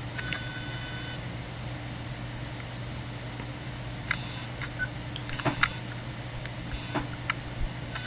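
A steady low hum with a few scattered sharp clicks and brief hissy bursts in the second half.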